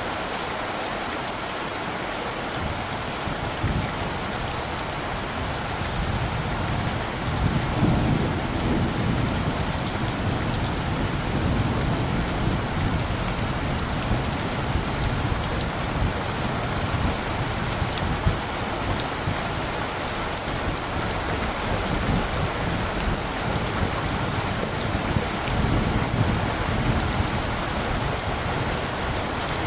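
Steady rain falling, with low rolling thunder that swells up about a quarter of the way in and again near the end.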